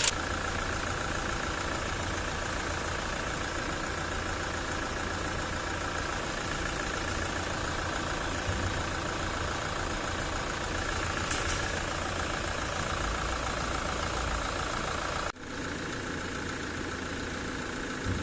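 Toyota 1GD-FTV four-cylinder turbodiesel idling steadily, with the front-of-engine rattle that a stretched, slack timing chain gives this engine. The sound drops out for an instant about 15 seconds in and then carries on.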